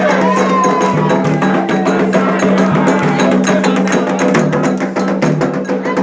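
Candomblé ritual music for Oyá: a fast, steady rhythm of drums and sharp clicking strokes, with a voice gliding briefly near the start.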